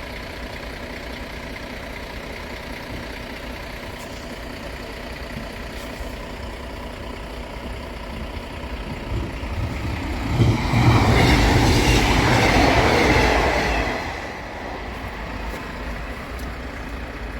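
Diesel train passing over the level crossing. It grows louder over a couple of seconds, passes loudest for about three and a half seconds with a low rumble and wheel noise, then dies away quickly.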